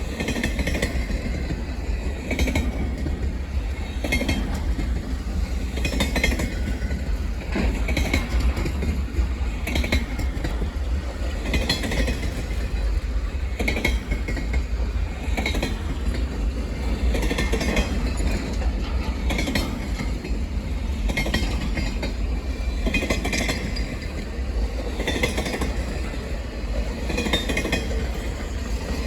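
Freight cars rolling past, their wheels clicking over the rail joints in a steady rhythm every second or two, over a constant low rumble.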